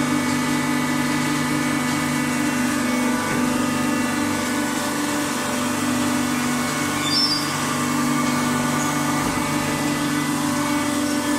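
Automatic waste-paper baling machine running, a steady mechanical hum made of several constant tones.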